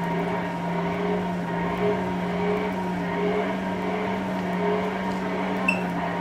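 Steady machine hum, like a running motor, with a short faint click about five and a half seconds in.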